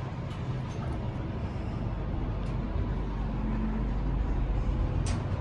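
Passenger lift car travelling in the shaft: a steady low rumble that builds about a second and a half in, with a sharp tick near the end.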